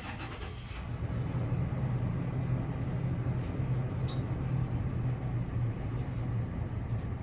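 Low, steady rumble of a motor vehicle engine running, growing louder about a second in and then holding.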